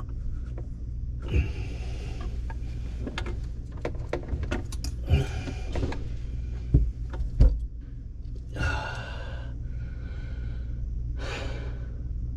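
PVC drain pipe and coupling being handled and fitted under a sink: scattered plastic clicks and knocks, with two loud knocks about seven seconds in and two short rushing noises after them, over a steady low hum.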